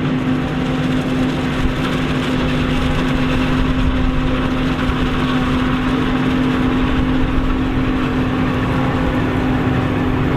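Heavy farm machinery running steadily under load, a constant engine drone with a strong, even hum.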